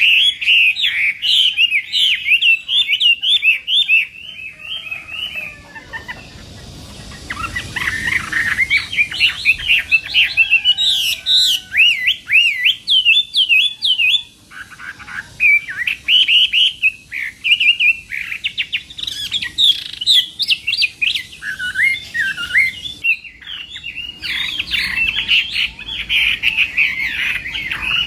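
Chinese hwamei singing a loud, varied song of fast repeated whistled notes, easing off briefly about a fifth of the way through before picking up again.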